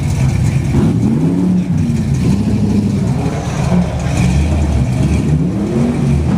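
Classic car engines accelerating over a steady low rumble, the engine note rising and falling in several swells.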